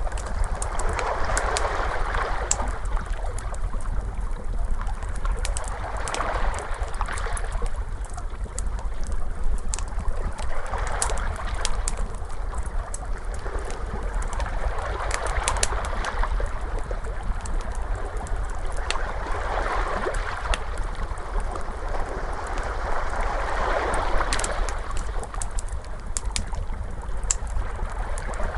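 Ocean waves washing in and out in slow swells, about every four to five seconds, over a low steady rumble. A wood fire crackles throughout with frequent sharp pops and snaps.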